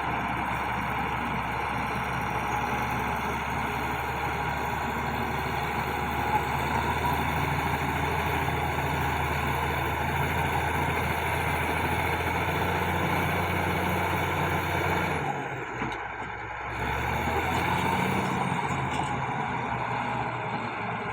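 Bulldozer diesel engine running steadily under load, with a short drop in level about fifteen seconds in before it picks up again.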